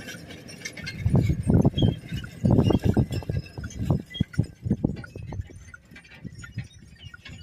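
A team of draft horses at work: irregular dull thuds of hooves on soil, loudest in the first half, with light clinking of harness chains and metal fittings.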